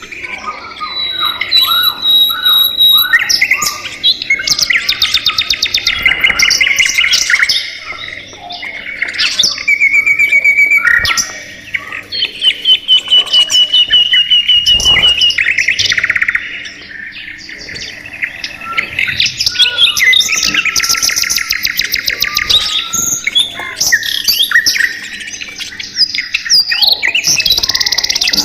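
A group of budgerigars chattering and warbling together: a dense, continuous mix of chirps and rapid trills.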